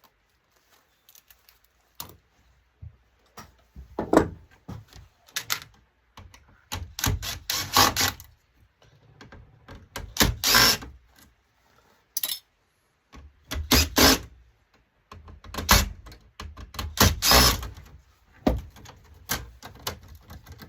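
Parts and hand tools being handled while an LCD monitor is taken apart: irregular clicks, knocks and clatter, with a few longer stretches of scraping and rattling.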